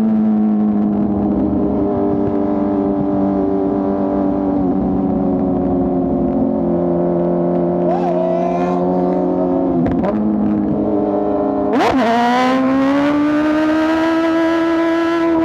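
A 2024 BMW S1000RR's inline-four engine running under way, its note easing down at first and shifting in steps. About two thirds of the way through, the note breaks sharply twice with quick blips, and the pitch then climbs steadily as the bike pulls harder.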